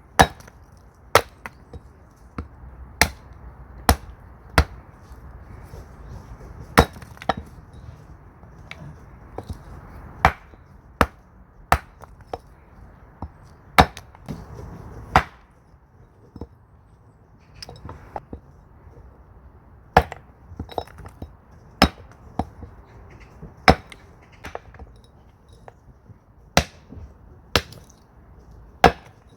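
Axe blows splitting firewood: about thirty sharp, cracking strikes at uneven intervals of half a second to two seconds, some much louder than others.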